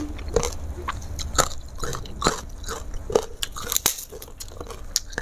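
Close-miked chewing of a mouthful of food, with wet lip smacks and sharp mouth clicks about twice a second.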